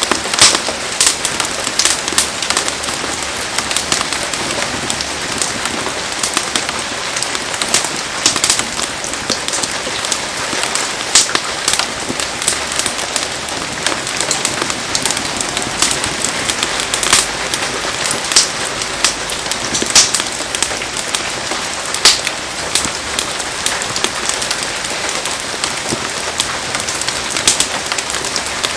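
Heavy rain falling steadily, a dense hiss of pattering drops with frequent sharp ticks and pops scattered through it.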